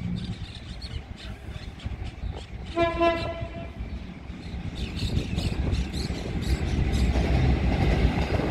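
Diesel passenger train approaching: the locomotive sounds one horn blast lasting about a second, about three seconds in. The low rumble of engine and wheels grows louder toward the end, with clicks from the rails.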